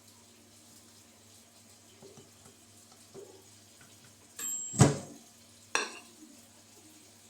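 Kitchen dishes being handled: faint small knocks, then a loud ringing clatter about four and a half seconds in, followed by a second, sharper clink about a second later.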